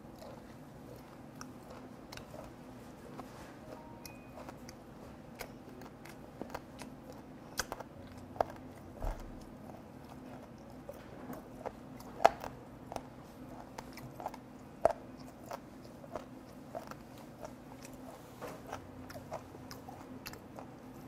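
Close-up chewing of skate (hongeo) slices, with irregular crunchy clicks from the cartilage and a few louder crunches midway, over a faint steady hum.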